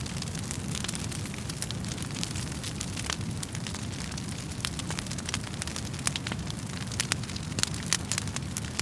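Wood fire burning in a fireplace: a steady low rumble of the flames under frequent irregular crackles and pops from the burning wood, the pops coming thicker and louder in the last few seconds.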